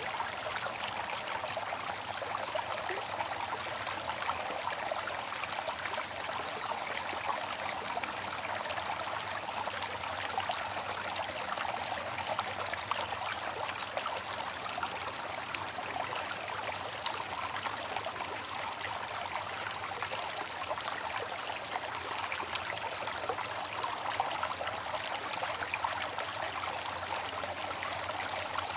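Water fountain splashing and trickling in a steady, unbroken flow.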